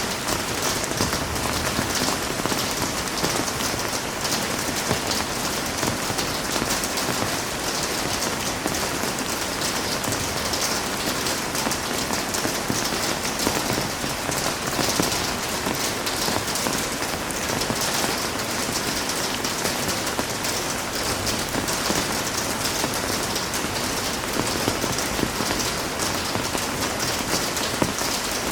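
Heavy rain falling steadily, a dense hiss of drops pattering on surfaces.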